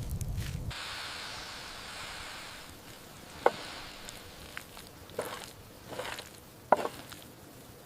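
A few sharp knocks or taps, four of them about a second apart in the second half, over a soft hiss.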